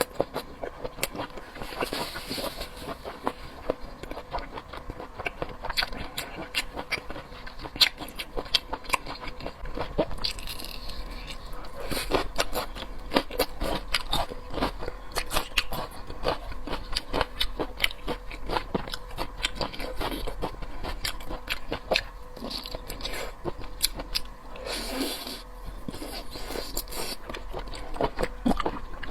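Close-miked eating of seafood: wet chewing and biting with many small irregular clicks and smacks, and a few short noisy stretches.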